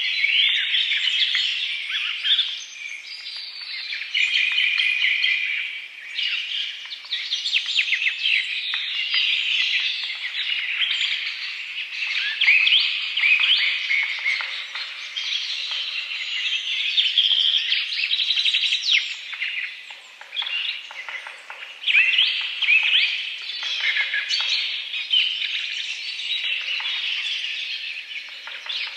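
Many birds chirping and calling at once: a dense, continuous chorus of short overlapping chirps and trills.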